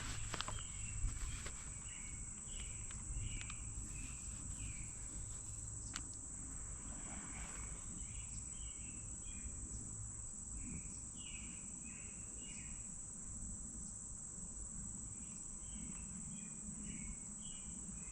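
Steady high-pitched insect trilling, with short scattered chirps throughout and a low rumble underneath.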